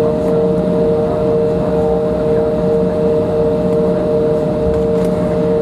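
Steady cabin noise inside an Embraer 175 airliner on the ground: an even rumble with two constant whining tones from its turbofan engines running at idle before takeoff.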